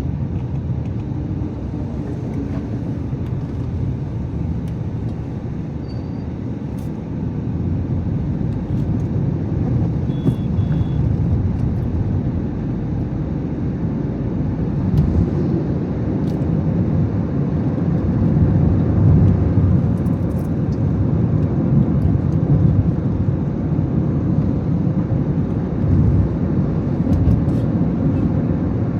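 A car driving, a steady low rumble of engine and road noise that grows somewhat louder after about eight seconds.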